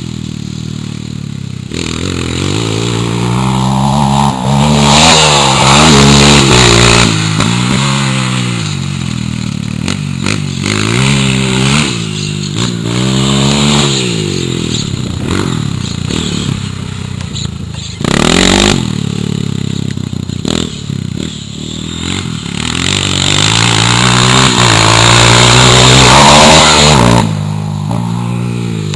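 Honda CRF230 dirt bike's single-cylinder four-stroke engine revving up and down again and again, the pitch climbing and dropping as the rider works the throttle and gears, with rushes of wind noise and a brief loud burst of noise partway through.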